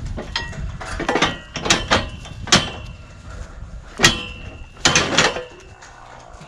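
Steel cattle chute clanking and rattling as a cow shifts and pushes inside it: about six sharp metal bangs, the loudest about four seconds in, several ringing briefly.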